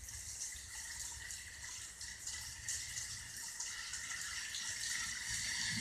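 Heavy rain pouring down: a steady hiss of water with faint patter of drops.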